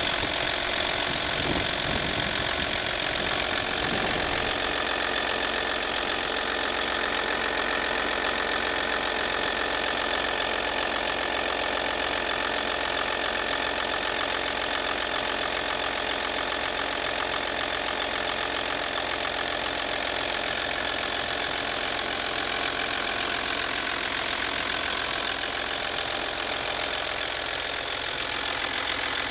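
V6 TDI turbodiesel engine running steadily, recorded to show a strange noise that the owner has not identified. Some irregular low thumps come in the first few seconds.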